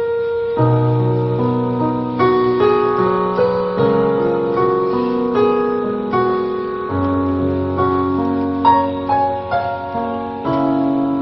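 Keyboard played in a piano sound, a slow introduction of sustained chords and a melody line leading into a worship song.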